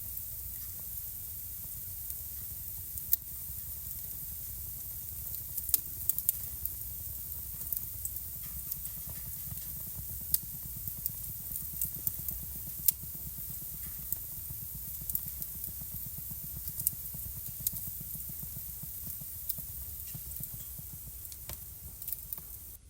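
Wood fire burning in a home fireplace: irregular sharp crackles and pops over a steady low rumble and soft hiss of the flames.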